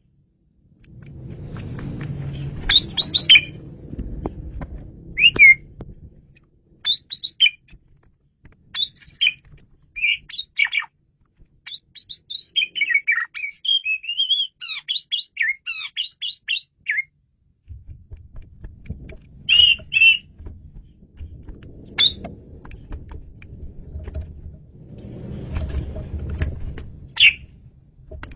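Male Asian pied starling (jalak suren) singing loud, clear whistles and harsh chattering notes in short phrases, with a fast run of warbling notes in the middle. A low rumble sounds underneath for the first few seconds and again through the last ten seconds.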